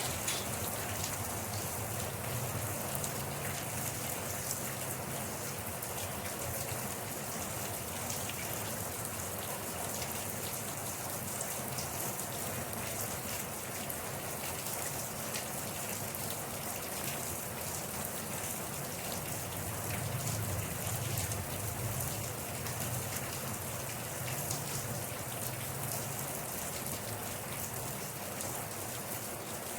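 Steady rain falling on a surface, with many fine drop taps over an even hiss. A low rumble swells for a couple of seconds about two-thirds of the way in.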